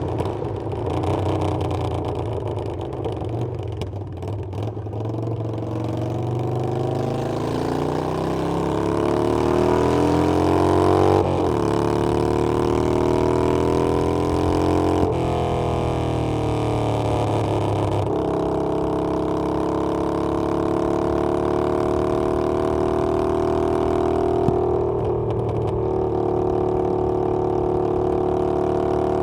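Harley-Davidson Iron 883's air-cooled V-twin engine on the road, rising in pitch for several seconds as it accelerates, breaking off twice, then dropping back and settling into a steady cruise.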